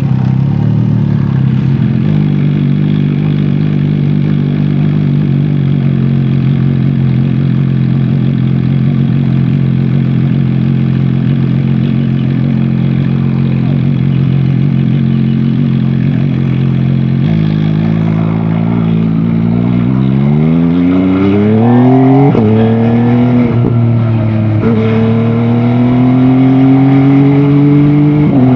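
MV Agusta Dragster 800 RR's three-cylinder engine holding a steady note, then about two-thirds through accelerating hard with the pitch climbing. Two upshifts drop the pitch in quick succession, and it keeps rising after them.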